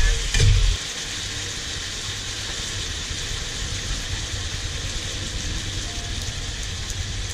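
Chicken pieces sizzling in an aluminium wok: a steady hiss over a low, even rumble. In about the first second a metal spatula stirs and scrapes against the wok.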